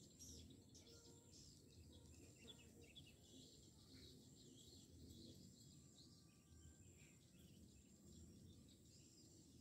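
Faint, scattered high twittering chirps of swiftlets over a low background rumble.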